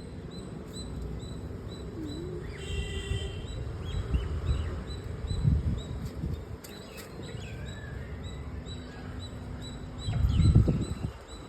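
Birds chirping outdoors over a low rumbling noise, with a louder low-pitched bump about ten seconds in.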